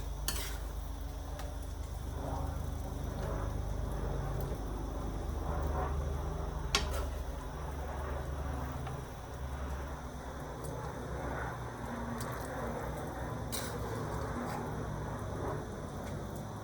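Steamed chicken wings being transferred into a soup pot: soft, wet handling sounds with three sharp clicks of a utensil against the pot, the loudest about seven seconds in, over a low steady hum.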